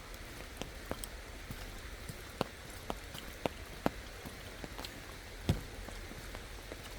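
Scattered raindrops tapping in irregular, sharp ticks over a steady faint hiss.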